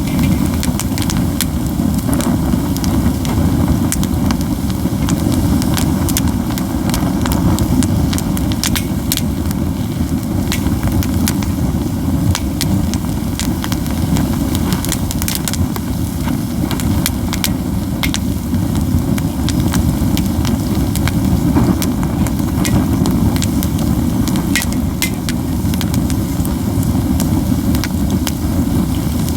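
Pine cones burning in a heaped campfire, crackling and popping with many sharp snaps over a steady low rumble.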